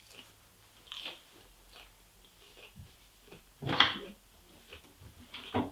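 A person chewing and crunching rabbit food in irregular bites, the loudest crunches about a second in, near four seconds and near the end.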